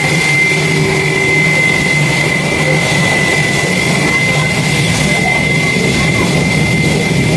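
Airliner engines running steadily and loud: a deep rumble under a single high, steady whine.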